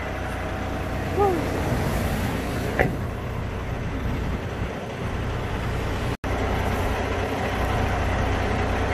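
Tractor-trailer's diesel engine idling with a steady low rumble. A brief falling tone about a second in and a sharp click near three seconds stand out over it, and the sound drops out for an instant about six seconds in.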